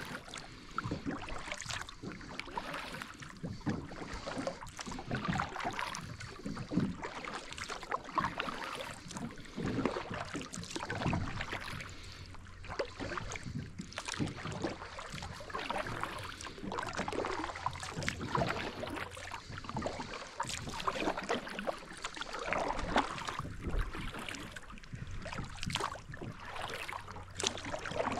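Kayak paddling: paddle blades dipping and splashing in river water in an irregular run of strokes, over a steady wash of moving water.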